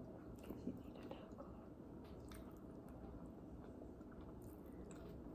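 Faint chewing and soft, wet squishing mouth sounds of someone eating, with a few light clicks.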